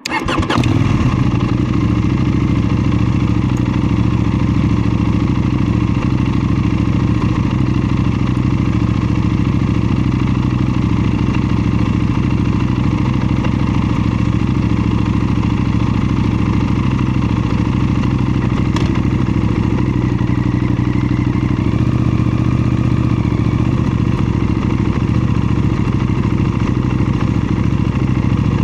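KTM 790 Duke's parallel-twin engine idling steadily, its sound coming in suddenly at the start and holding an even pitch with no revving.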